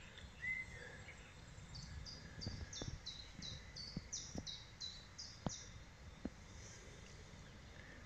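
A songbird singing a run of about a dozen evenly repeated high notes, each dropping in pitch, over faint woodland background, with a few faint clicks.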